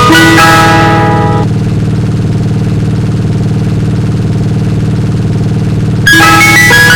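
Ice cream truck jingle: a bright, plinking chime melody that stops about a second and a half in, leaving a steady low hum, then starts again near the end.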